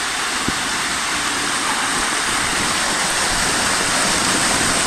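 Water showering down from overhead water-park rain sprayers, a steady heavy splashing hiss close to the microphone.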